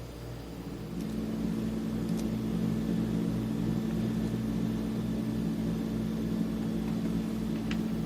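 A small electric motor running with a steady hum, coming up to speed in the first second and then holding at an even pitch.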